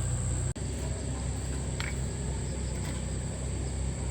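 A vehicle engine idling steadily, with a constant high-pitched whine over it. The sound drops out for an instant about half a second in.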